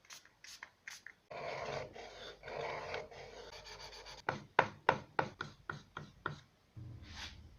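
Hand work on wood: two scraping or rasping strokes, then a quick run of sharp wooden taps at about four or five a second, and a dull knock near the end.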